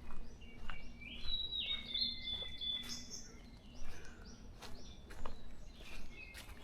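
Small forest birds chirping and singing in high, thin phrases, busiest about one to three seconds in, with scattered short clicks in between.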